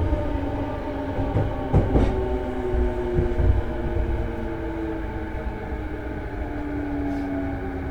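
JR East E233-series electric train running between stations: steady wheel and track rumble under a motor whine of several tones that slowly falls in pitch. There are a couple of sharp knocks from the rails about two seconds in.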